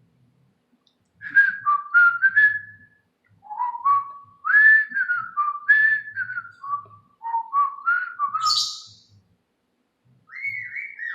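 Pet bird whistling a string of short tuneful phrases that slide up and down in pitch, with a brief scratchy note partway through, a short pause, then more whistling near the end.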